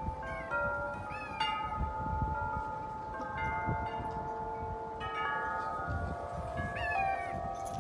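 Wind chimes ringing in gusty wind, struck again and again so that their clear tones overlap and hang on. A low rumble of wind runs underneath.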